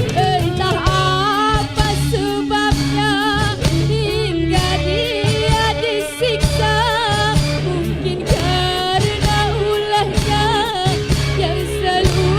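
A woman singing a sustained, ornamented melody with heavy vibrato over a live band accompaniment with a steady beat.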